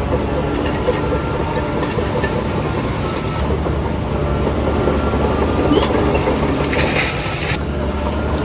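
Diesel engine of a crawler bulldozer running steadily under load, with the clatter of its steel tracks. A short hiss about seven seconds in.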